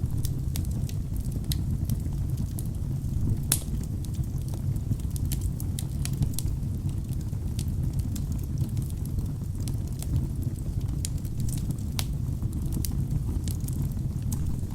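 Wood fire burning in a fireplace: a steady low rumble of flames with frequent sharp crackles and pops from the burning logs. One pop about three and a half seconds in is louder than the rest.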